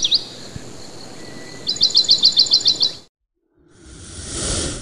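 Bird chirps in quick runs of sharp, repeated notes over a steady hiss, cutting off suddenly about three seconds in. Near the end a short rush of noise swells and fades.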